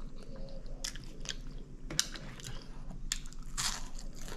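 A person chewing a mouthful of potato salad close to the microphone: irregular wet mouth smacks and clicks, a couple a second.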